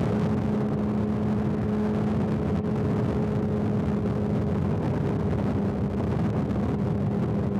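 Motorcycle cruising at steady highway speed: the engine holds an even, unchanging pitch under a constant rush of wind and road noise.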